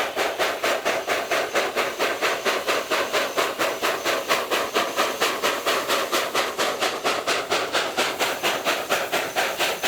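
Steam locomotive exhaust chuffing in a fast, even beat of about four to five chuffs a second, with steam hiss.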